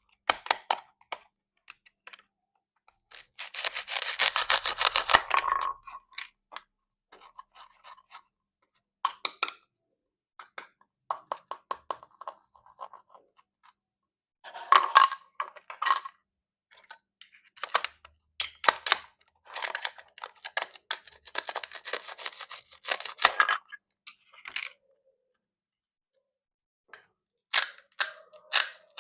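Plastic toy fruit being cut with a knife: bursts of rapid clicking and scraping, with single clicks between them and a pause of a couple of seconds near the end.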